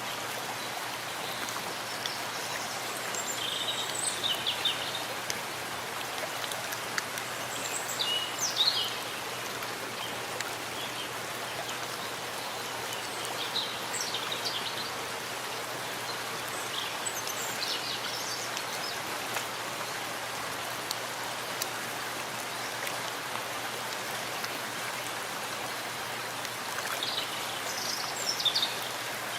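Steady rain falling in a forest, a constant hiss, with short high bird chirps every few seconds.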